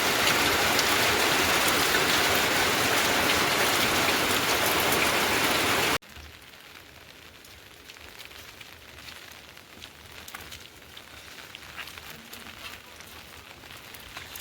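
Heavy rain pouring, loud and steady. About six seconds in it drops suddenly to a much quieter patter of rain with scattered drips.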